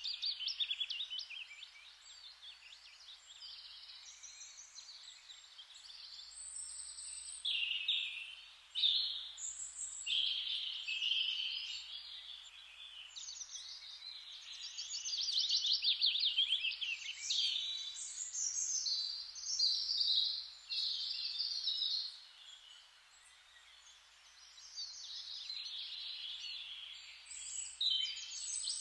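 Several songbirds singing at once, with overlapping rapid trills and chirps over a soft steady hiss, easing off briefly about three-quarters of the way through.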